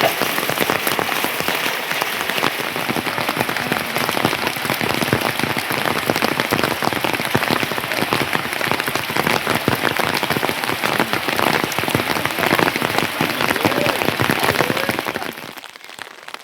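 Steady rain falling, a dense patter of drops striking a surface; it cuts off sharply about a second before the end.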